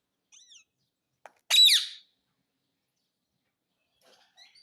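Indian ringneck parrot calling: a faint short chirp, then about a second and a half in a loud, brief call that falls in pitch, with soft chirps near the end.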